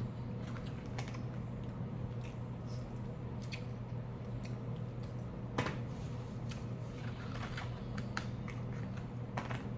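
A person eating, close to the microphone: chewing with scattered short clicks and smacks, the sharpest about halfway through, over a steady low hum.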